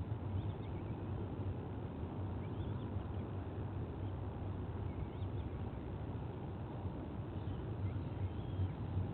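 Outdoor nest-camera ambience: a steady low rumble, with faint short bird chirps now and then.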